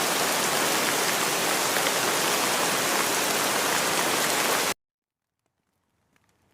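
Steady, dense rain hiss that cuts off abruptly about three-quarters of the way through, leaving near silence. Faint scattered drip-like ticks begin just before the end.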